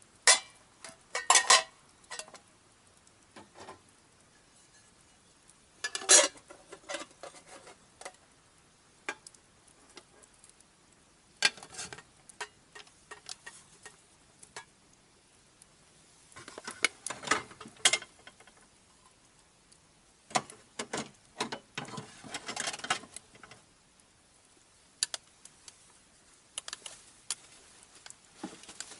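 Clinks and clatters of camping gear being handled and packed away: sharp metal-like knocks coming in short clusters every few seconds, with quiet stretches between.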